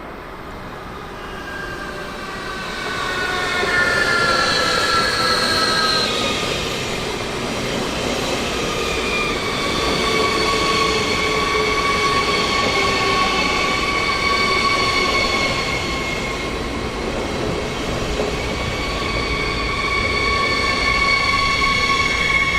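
Train running through a station, growing louder over the first few seconds, with several high-pitched squealing tones from the wheels or brakes over a steady rumble. The squeals slide down in pitch at first, then hold steady.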